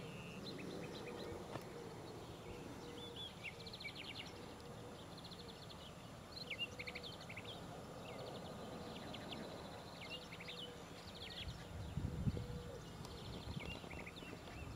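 Small songbirds chirping in the trees, with quick rattling trills and short rising notes, one after another. A brief low rumble on the microphone about twelve seconds in.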